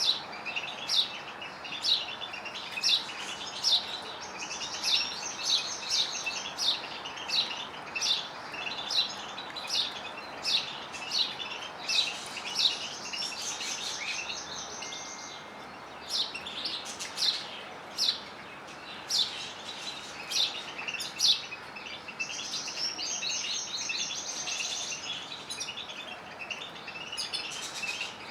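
Canaries and goldfinches singing: a steady run of sharp, downward-sweeping chirps about once a second, with fast high trills breaking in a few times.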